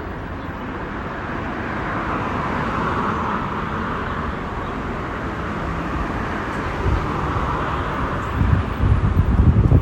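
Road traffic: the engine and tyre noise of passing vehicles, swelling twice. Wind buffets the microphone in low rumbling gusts over the last few seconds.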